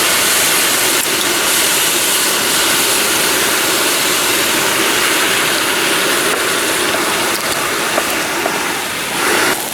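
Udon noodles sizzling steadily on a hot iron griddle, just after being dropped in to fry.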